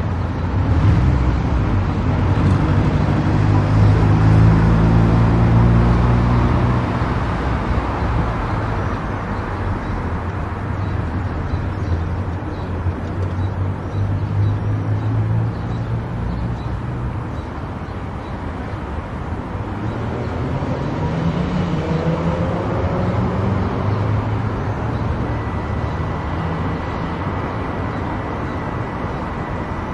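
Car travelling on an expressway: steady tyre and road noise with engine sound that rises in pitch twice, once in the first few seconds and again about two-thirds of the way through. A thin steady high tone comes in near the end.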